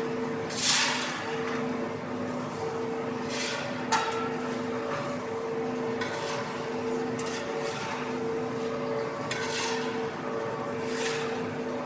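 Compactor machine running: a steady two-tone motor hum that breaks off and resumes, with several short bursts of hissing and clattering noise, the loudest about a second in.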